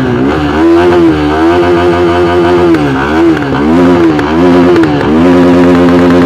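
KTM RC 390's single-cylinder engine revved through its exhaust in repeated blips, the pitch rising and falling several times, then held at a steady rev near the end.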